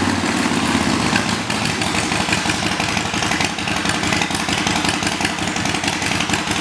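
2015 Harley-Davidson Sportster Forty-Eight's 1,200 cc air-cooled V-twin idling just after being started, dropping from a slightly faster speed in the first half-second into a steady, evenly pulsing idle.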